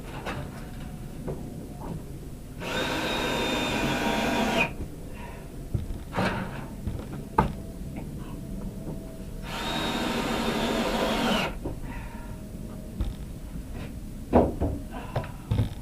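Ryobi cordless drill running in two bursts of about two seconds each, with a steady whine, and scattered knocks and clatter between them.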